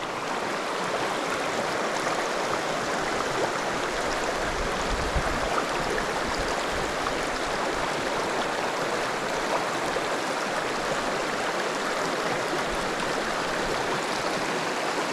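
Creek water running steadily, a continuous rushing hiss, with a brief low rumble about five seconds in.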